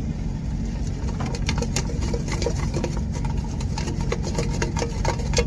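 Truck engine idling with a steady low hum, with a run of small clicks and taps over it from about a second in.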